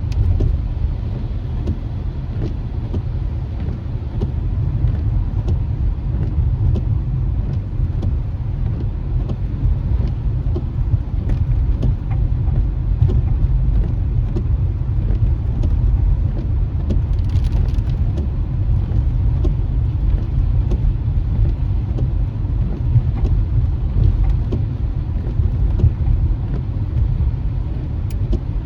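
Steady low rumble of a moving car's road and engine noise, heard from inside the cabin. A brief faint hiss comes a little past halfway.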